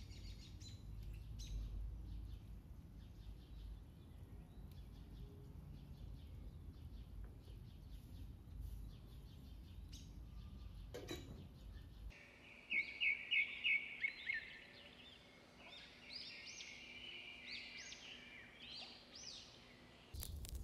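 Low outdoor rumble with faint ticks and a single clink about halfway through as a metal pot lid is handled over a wood fire. Then the background changes suddenly to songbirds singing, starting with a fast run of bright repeated notes, the loudest sound, followed by varied chirping phrases.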